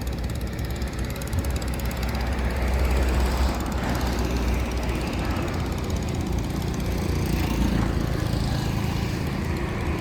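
Boat engine running steadily, a low, even hum with some noise over it that swells a little a few seconds in.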